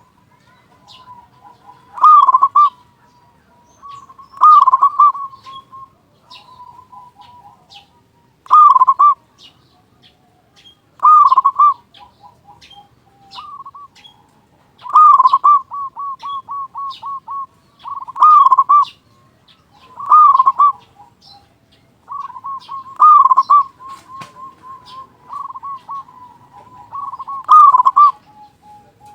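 Zebra dove (perkutut) singing its cooing song over and over, a loud phrase about every two seconds, some phrases trailing into a quick run of short coos.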